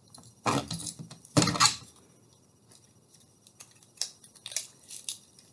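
Hands handling twine and a pine cone while tying a knot. There are two louder rustling knocks about half a second and a second and a half in, then scattered light clicks and rustles.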